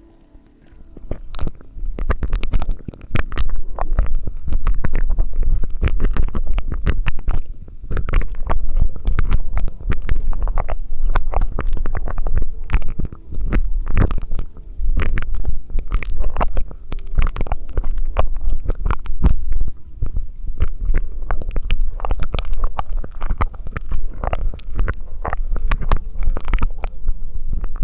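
Close-miked ASMR mouth sounds: a dense, irregular run of wet clicks and pops over a low rumble, with a short pause about a second in.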